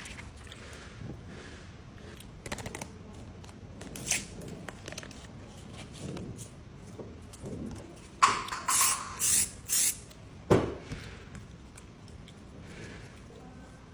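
Small handling noises while working on an iPhone 11 during a screen replacement: light clicks and taps, then a quick run of four short scraping or rustling sounds about eight seconds in and a dull knock about two seconds later.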